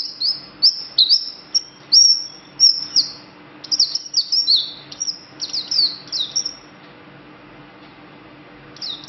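Small green songbird singing a rapid run of high, sharp chirps, many sweeping downward in pitch. The song breaks off about six and a half seconds in, and a short burst returns at the very end.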